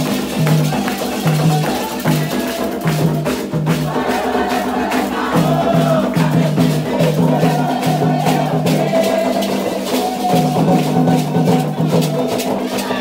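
Candomblé ceremonial music: rattles and percussion keeping a steady beat while voices sing over it.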